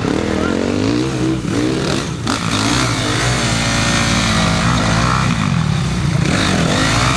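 Several enduro dirt-bike engines revving, their pitch rising and falling as the riders work the throttle.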